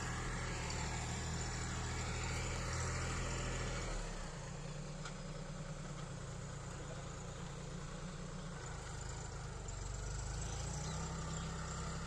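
Diesel engine of a Farmtrac Atom 26 hp mini tractor running steadily, turning a little quieter about four seconds in.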